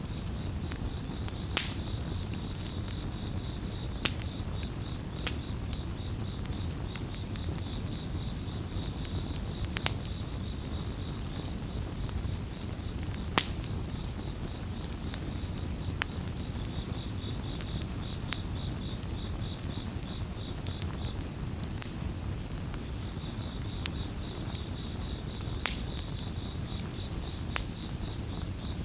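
Campfire crackling, with a steady low rumble and sharp pops every second or two. Crickets chirp in a fast pulsing trill that stops for a while mid-way, then resumes in two more long runs.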